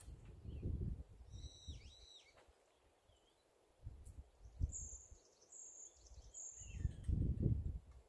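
Birds calling: a short high call with two dipping notes about a second and a half in, then three high, thin, level whistles in a row from the middle to near the end. Low rumbling wind noise on the microphone at the start and loudest near the end.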